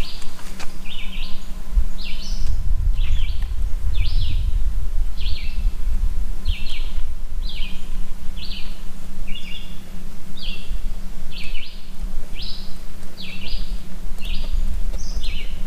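A bird chirping over and over, short high chirps coming about one and a half times a second, over a steady low rumble. A couple of clicks right at the start.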